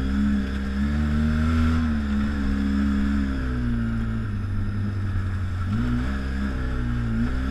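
ATV engine running under way, its revs rising and falling with the throttle; the pitch drops and holds lower for a couple of seconds past the middle, then picks up again about six seconds in.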